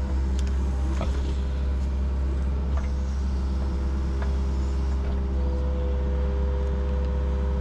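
Yanmar SV40 mini excavator's diesel engine running steadily under work, with a steady whine that grows a little stronger about five seconds in and a few faint knocks in the first seconds.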